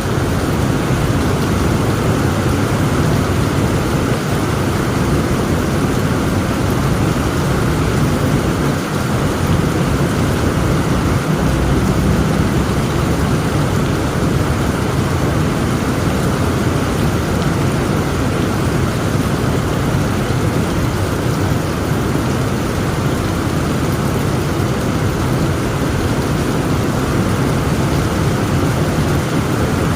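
Heavy rain pouring steadily, with thunder rumbling low underneath.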